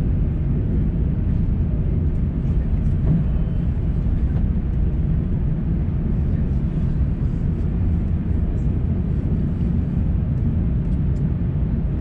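Steady low rumble inside the cabin of an Airbus A350-900 taxiing after landing: its Rolls-Royce Trent XWB engines running near idle together with the cabin air system, with a few faint high ticks and rattles.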